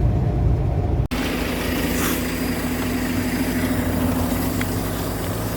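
Road and engine noise of a vehicle driving, a steady low rumble. About a second in it cuts out for an instant, then goes on as a steady engine hum.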